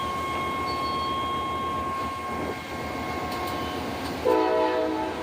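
Train running past with a steady rumble and a thin steady whine; about four seconds in, a short locomotive horn blast sounding a chord of several notes.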